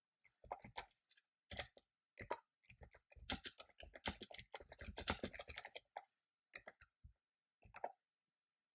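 Typing on a computer keyboard: irregular runs of quick keystrokes, densest in the middle, then a few single strokes before it stops near the end.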